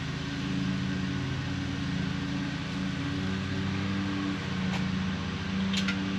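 An engine running steadily at idle, an even low hum, with a few faint clicks near the end.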